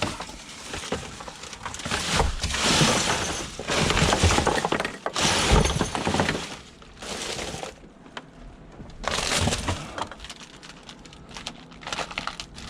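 Discarded scrap being rummaged through and moved about, clattering and crashing in several loud bursts with quieter gaps between.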